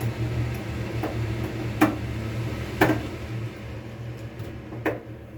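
Eating utensils clicking against a ramen bowl, four sharp clicks a second or so apart, over a steady low hum that fades about halfway through.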